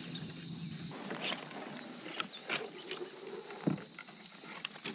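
A steady high-pitched insect drone in the background, with scattered light clicks and one dull knock about two-thirds of the way through.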